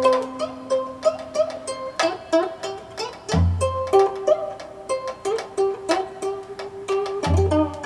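Gayageum, the Korean twelve-string plucked zither, playing a steady run of plucked notes with bent, wavering tones, and twice a deep low note sounding under them.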